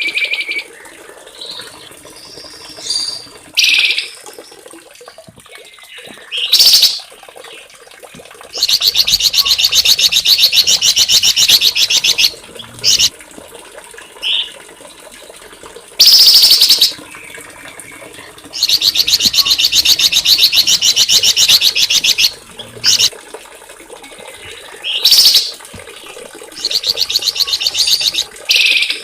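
Small songbird singing: short, sharp, high-pitched calls alternating with long rapid trills of quickly repeated notes, each trill lasting three to four seconds, three times.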